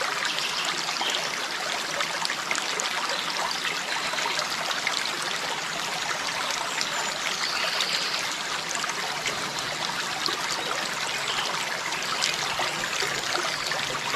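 Running water trickling and splashing at a steady level, with no swelling or breaking of waves.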